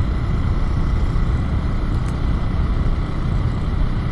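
Steady low rumble of a running vehicle, with no sudden events.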